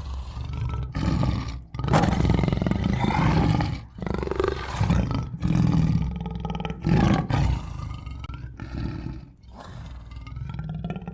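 Tiger roaring and growling in a series of loud, rough calls separated by short pauses.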